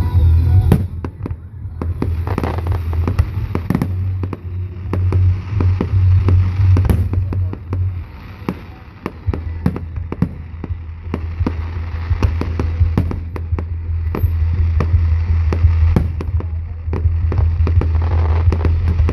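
Fireworks display: a rapid, irregular run of bangs and crackling pops from aerial shells, dozens of reports throughout, over a steady low hum.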